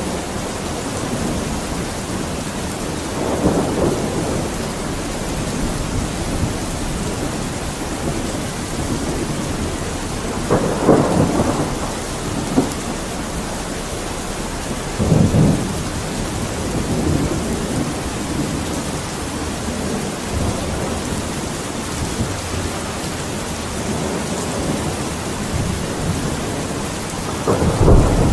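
Steady rain falling, with thunder rumbling about four times over it; the heaviest, deepest roll begins near the end.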